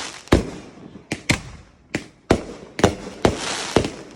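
Fireworks going off: a string of about eight sharp bangs at irregular intervals, some followed by a hiss.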